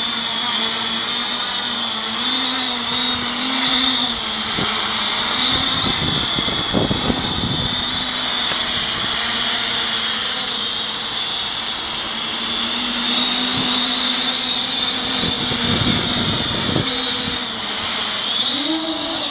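Quadcopter's electric motors and propellers whining steadily in flight, the pitch wavering a little up and down. A few brief low rumbles of wind buffet the microphone.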